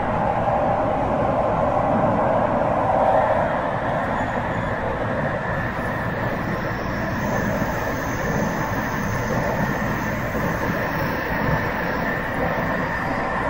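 Tsukuba Express TX-1000 series electric train running between stations, heard from inside the car: a steady rumble of wheels on rail with faint steady tones on top. A thin high tone comes in about six seconds in.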